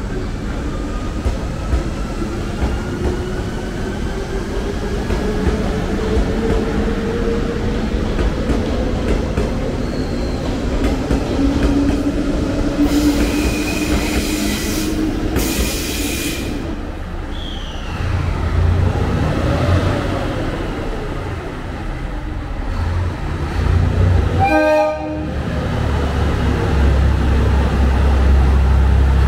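Trains in a station: an electric limited express pulls out with a slowly rising motor whine, and two bursts of hiss come a few seconds apart. From about halfway a second train brings a deep rumble that grows louder toward the end, with a short horn toot near the end.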